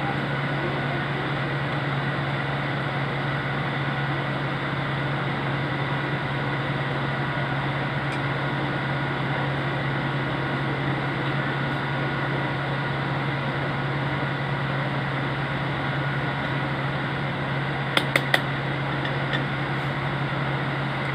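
Steady electrical hum with a fan whirring, unchanging throughout. Three sharp clicks come close together about 18 seconds in.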